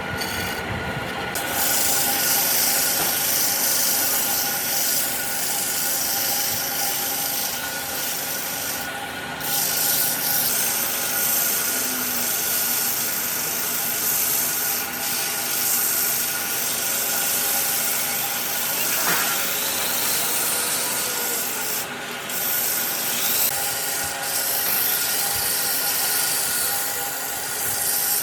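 Sandpaper being worked against wood: a continuous scratchy hiss that breaks off briefly twice, over a steady machine hum.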